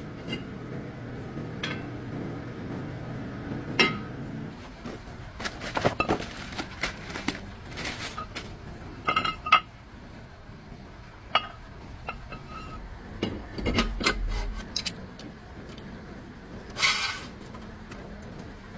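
Irregular clinks and knocks of hard, metallic objects being handled, several ringing briefly, over a low hum during the first few seconds.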